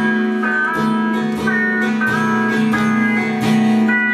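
Guitar strummed and picked, a string or chord struck about every half second to a second and left ringing.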